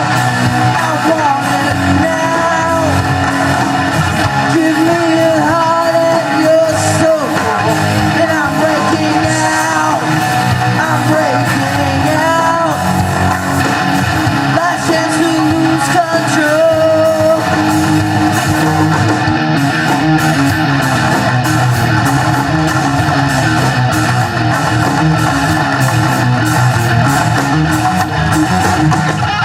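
Live rock band playing: electric guitar, bass and drums with a lead vocal. The singing drops out a little past the middle and the band plays on.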